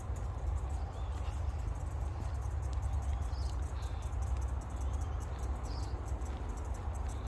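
Outdoor park ambience: a steady low rumble with short, faint bird chirps and light high clicks over it.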